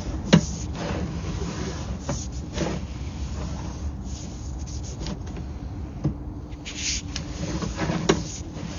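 Sewer inspection camera gear being pushed along a pipe: scattered knocks and short rubbing sounds over a steady low hum.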